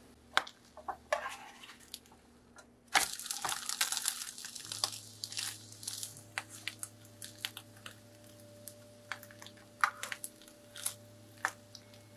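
Egg and bread frying in butter in a nonstick pan, crackling and spitting, with a metal spatula tapping and scraping on the pan. A sudden, louder burst of sizzling comes about three seconds in and dies down over the next couple of seconds, leaving scattered pops and taps.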